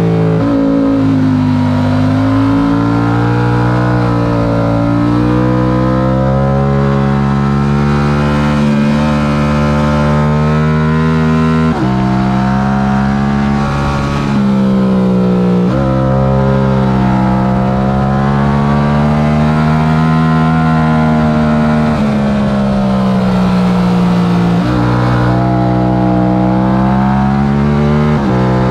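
Yamaha R7's stock 689 cc parallel-twin engine at racing revs. Its pitch climbs and falls as the throttle is worked, with sudden steps in pitch at several gear changes.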